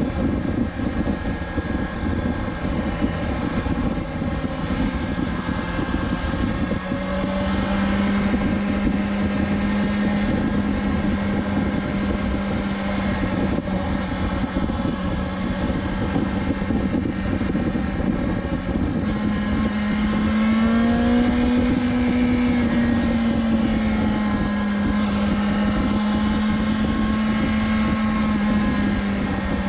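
BMW S1000XR's inline-four engine cruising at steady revs under a heavy rush of wind noise. About two-thirds of the way through the engine pitch rises a little, levels off, and eases down slightly near the end.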